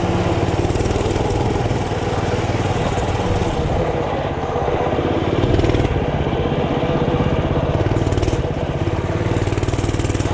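Mini bike's small engine running continuously under way, its speed rising and falling a little.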